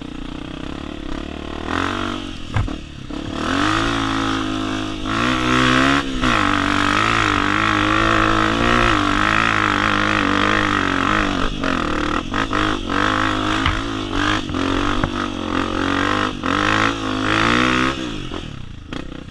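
Honda CRF250F's single-cylinder four-stroke engine revving hard under load, its pitch wavering with the throttle. It climbs to full load a few seconds in and drops away near the end, with a few sharp clicks along the way.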